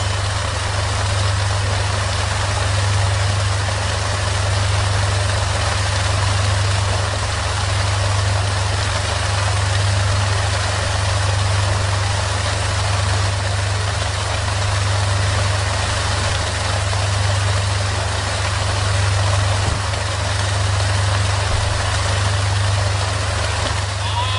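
Small motor of a miniature model water pump running continuously, a steady low hum with a hiss above it that slowly swells and eases every few seconds.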